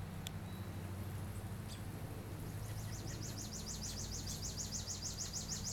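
Baby birds chirping in a rapid, even run of high chirps, several a second, starting about halfway in, over a steady low hum.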